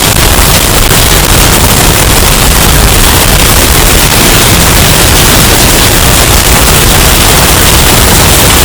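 Hurricane wind sound effect, bass-boosted and overdriven into a constant harsh, clipped roar of noise at full volume. It holds steady without pauses or changes.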